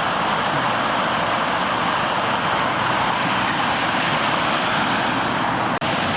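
Steady rushing of fast-flowing floodwater in a swollen creek, cutting out for an instant near the end.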